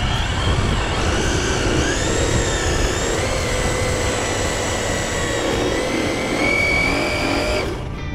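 Electric motor and drivetrain of a Losi RC drag car whining steadily as the car is driven. The pitch steps up about two seconds in and again near the end, then cuts off.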